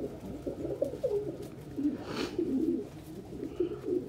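Several domestic pigeons cooing at once, overlapping low warbling coos throughout, with a brief swish about two seconds in.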